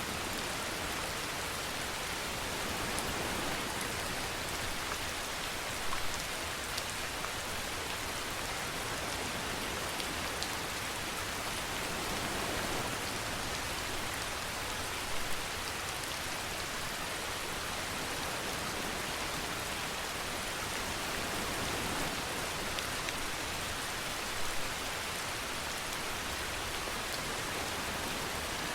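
Steady rain falling on a surface, an even hiss of drops, with three brief louder spatters spread through it.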